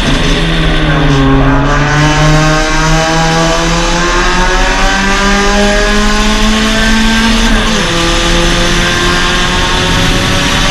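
Suzuki Swift Sport race car's 1.6-litre four-cylinder engine under racing load. The revs dip at the start, then climb steadily for several seconds through the bend. About eight seconds in they fall sharply with an upshift, then climb again.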